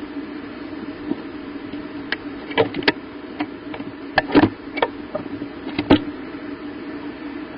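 A bird shifting about in a nest box, with irregular short taps and scratches, most of them in the middle of the stretch, over a steady low hum.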